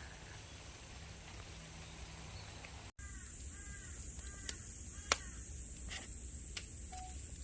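A bird calling about five times in quick succession, each call a short arched note, over a steady outdoor background with a thin high whine. A few sharp clicks follow, the loudest about five seconds in.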